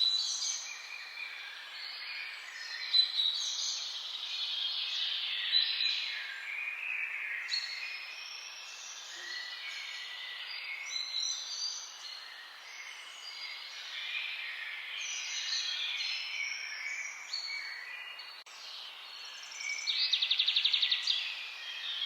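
Several songbirds singing at once, a dense chorus of overlapping chirps and phrases, over a faint steady hiss. Near the end, one bird gives a fast trill of rapidly repeated notes, the loudest sound here.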